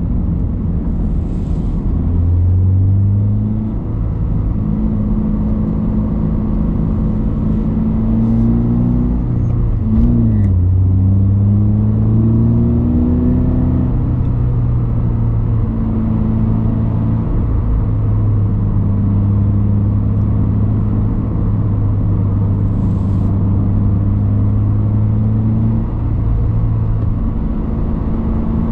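Subaru BRZ / Toyota GR86 flat-four engine running through a straight-through COLBASSO Ti-R Plus titanium single-exit muffler, at mostly steady revs with a low exhaust rumble; about ten seconds in the pitch drops and jumps back as at a gear change, climbs for a few seconds, then settles.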